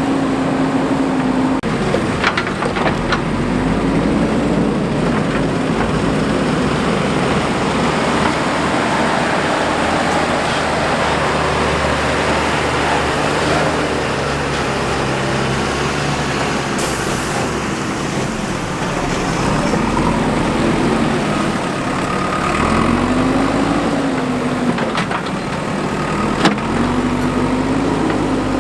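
JCB 3DX backhoe loader's diesel engine running, its pitch rising and falling again and again as it works under hydraulic load, with a few clanks.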